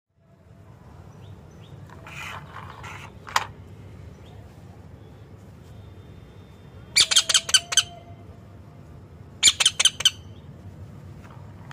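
Pet parrot squawking in short, shrill bursts: a rougher call about two seconds in, then two quick runs of five or six sharp squawks, about seven and nine and a half seconds in, over a steady low hum.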